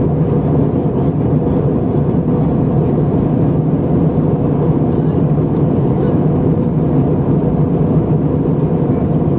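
Steady engine and airflow noise inside the cabin of an Airbus A320 airliner in flight, an even, unchanging drone with no distinct events.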